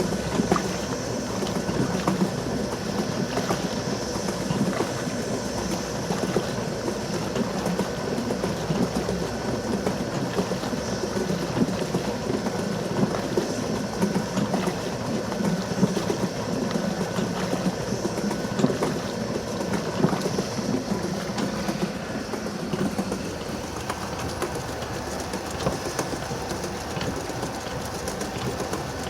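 Restored antique wooden washing machine agitating, driven by a high-speed motor. Its mechanical drive clatters steadily over a motor hum.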